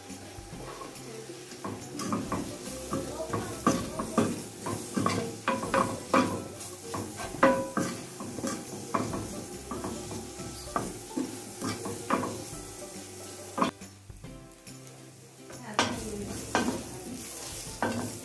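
Sliced red onions sizzling as they soften in a stainless-steel frying pan, stirred with a wooden spoon that scrapes and knocks against the pan. The stirring pauses briefly near the end, then starts again.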